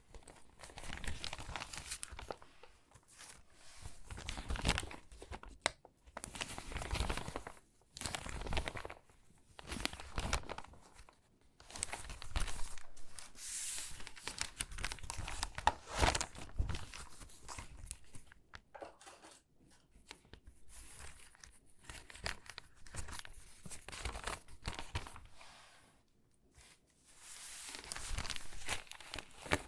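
Stiff, water-damaged magazine pages being handled and sorted, crinkling and rustling in irregular bursts with short pauses between them.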